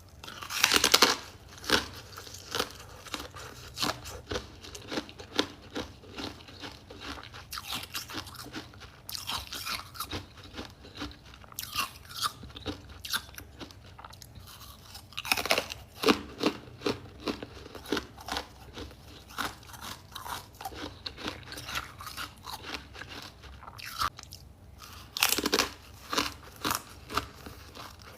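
Close, crisp crunching as a person bites and chews freezer-frost ice: three loud bites, about a second in, about halfway and near the end, each followed by a run of chewing crunches about one or two a second.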